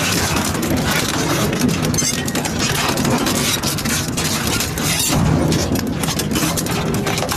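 Double-shaft shredder running and crunching through material, with a steady low motor hum under many irregular cracks and snaps.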